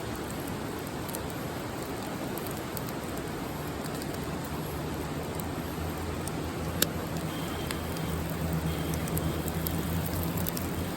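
Wood campfire crackling, scattered sharp snaps (one louder pop about seven seconds in) over a steady rushing hiss. A low steady hum comes in about four seconds in.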